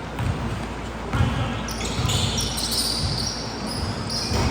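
A basketball bouncing on an indoor court during play, with sneakers squeaking on the floor from about two seconds in and voices in the background.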